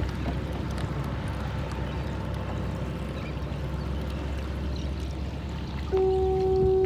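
Water rushing and splashing against a moving kayak's hull. Near the end a louder steady tone sounds for about a second.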